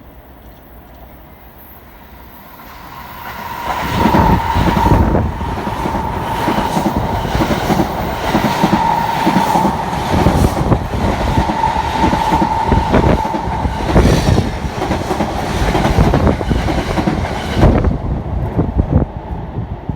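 A train passing close by, its wheels clattering rhythmically over the rail joints. It builds in about three seconds in, with a steady high tone under the clatter for several seconds, and drops away shortly before the end.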